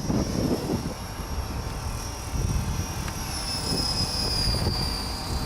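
ESKY Honey Bee King 4 electric RC helicopter in flight, its motor and rotor giving a steady high whine that drops slightly in pitch about three seconds in. Wind rumbles on the microphone underneath.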